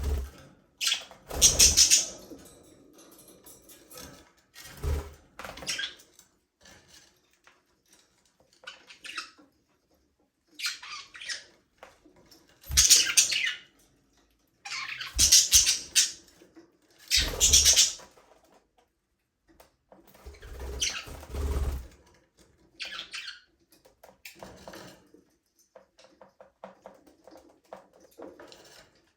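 Budgerigars chirping and squawking in short, irregular bursts with brief pauses between.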